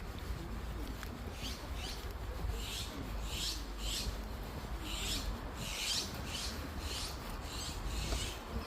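Footsteps crunching on a path at a walking pace, about two steps a second, over a low steady rumble.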